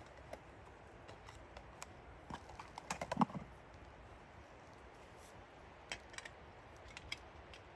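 Scattered light clicks and taps, bunched together about three seconds in with one louder knock, then a few more near the end.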